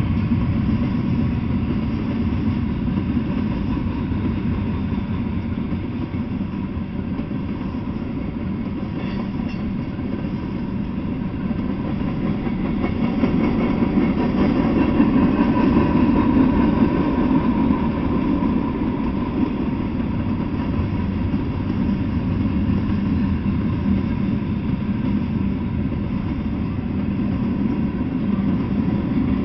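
Freight train cars rolling past: the steady low rumble of steel wheels on the rails, a little louder about halfway through.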